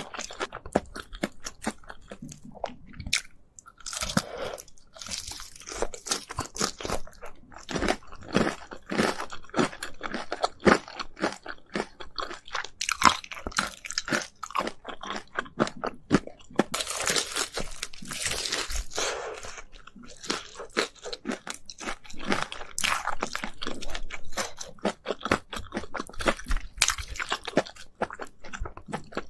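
Close-up biting and chewing of crispy Korean spicy fried chicken: dense, repeated crunching with sharp crackles, with a few longer stretches of wetter chewing.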